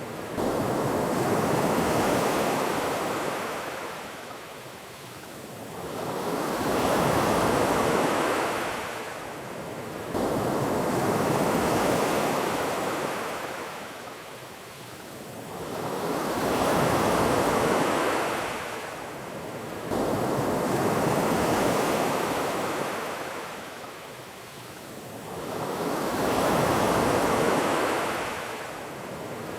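Ocean waves washing onto a beach: a rushing surf that swells and falls away in a slow rhythm, a new swell roughly every five seconds.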